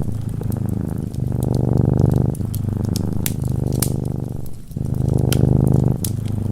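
Cat purring close up, in long pulsing phrases of about a second each that follow one after another with breathing breaks, while a fireplace crackles with sharp scattered clicks.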